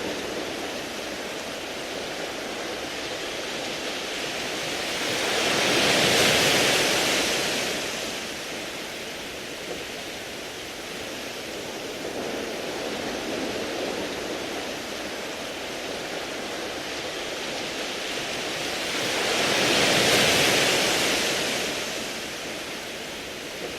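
Sea waves washing over a beach of round pebbles: a steady wash with two waves swelling in and breaking, one about six seconds in and one about twenty seconds in.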